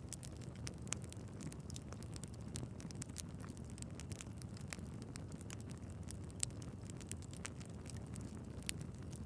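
Log fire in a fireplace crackling, with a low steady rumble of flames under frequent irregular sharp pops. The two loudest pops come about six and a half and eight and a half seconds in.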